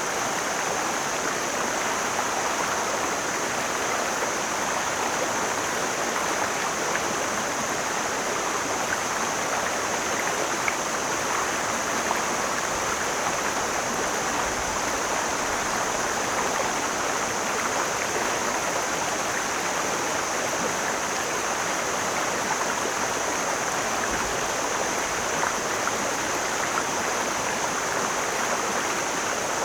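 Mountain stream flowing steadily: an even, unbroken rush of water with a thin, steady high hiss over it.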